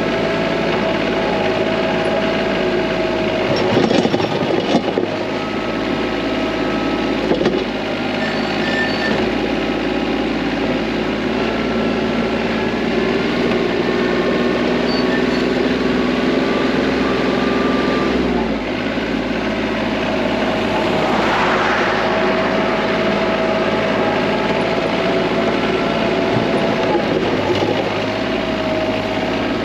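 TYM T25 compact tractor's diesel engine running steadily under work while plowing snow with the front bucket. There are a few knocks about four and seven seconds in, and the engine note shifts about eighteen seconds in.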